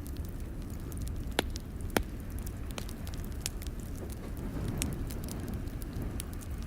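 Wood fire crackling in a fireplace: a steady low rumble with scattered sharp crackles, and two louder pops about one and a half and two seconds in.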